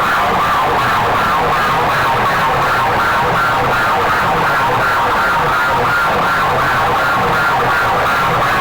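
Large DJ loudspeaker sound system played very loud, blaring a siren-like electronic tone with a fast repeating pulse.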